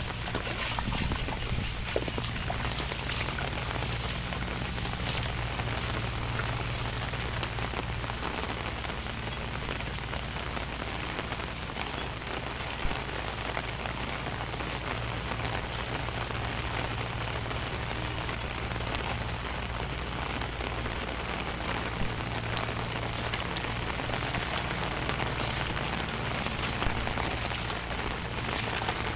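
Steady rain falling, an even hiss of drops with scattered louder single drips hitting a surface now and then. A low steady hum runs underneath.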